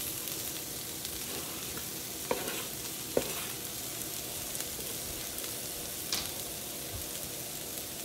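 Onions and freshly added parsley sizzling steadily in butter in a pan, with a few short knocks, the loudest about three seconds in.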